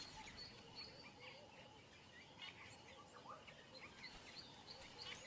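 Near silence: faint outdoor natural ambience with small, repeated bird chirps.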